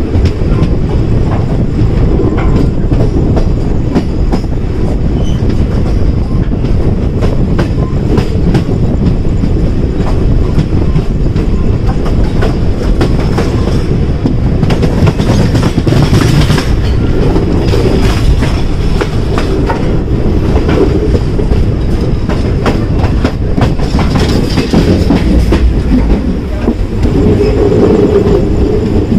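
Passenger train running along the track: a continuous heavy rumble with the wheels clattering over rail joints in a steady clickety-clack.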